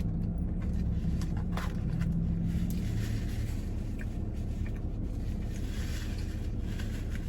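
Car engine idling close by: a steady low rumble with a hum that stops about three seconds in.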